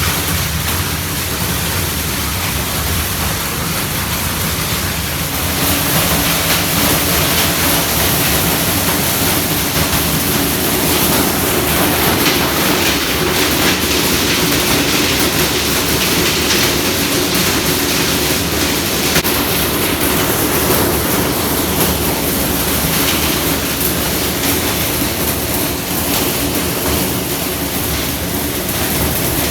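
Train running: a steady rumble and rushing noise with a low hum that rises slightly about six seconds in.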